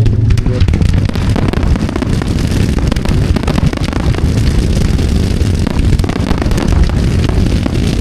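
Dense, continuous fireworks barrage: many overlapping booms and crackles merging into a steady low rumble.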